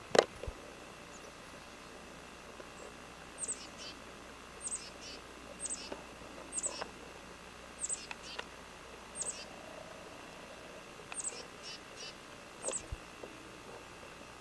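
A sharp click right at the start, then a bird calling: a high, quickly falling chirp repeated about eight times, roughly once a second.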